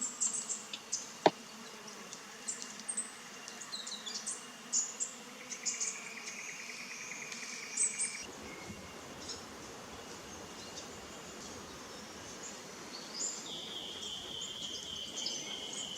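Natural bush ambience at a waterhole: scattered short, high bird chirps over insect sounds, with a pulsed insect trill for a couple of seconds near the middle and a steady high insect drone starting in the last few seconds.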